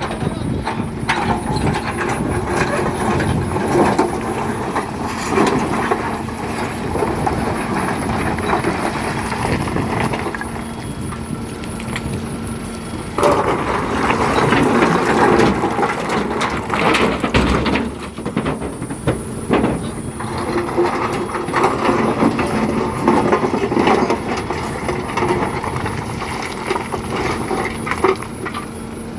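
Excavator engine running under load while black stone is loaded into a tipper truck, with rocks clattering and knocking into the truck body over a steady engine hum. It gets louder for a few seconds around the middle.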